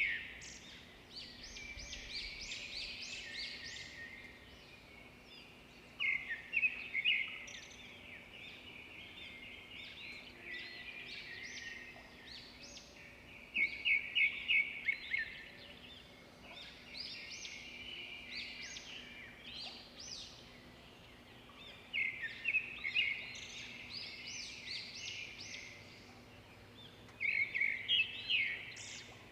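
Songbirds singing: loud bursts of rapid, high chirping phrases come back every six to eight seconds, with quieter twittering between them.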